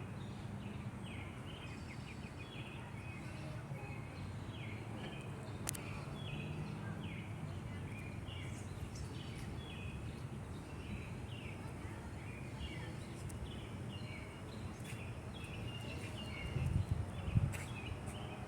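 Outdoor night ambience after a thunderstorm: a steady low rumble under an animal's short falling chirps, repeating about twice a second. A louder low rumble swells near the end.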